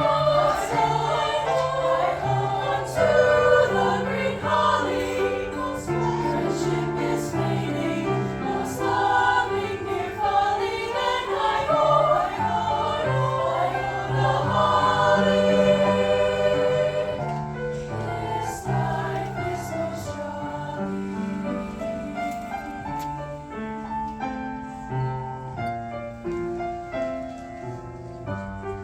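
Choir singing with piano accompaniment; the voices are fullest in the first part and grow quieter and thinner about two-thirds of the way in.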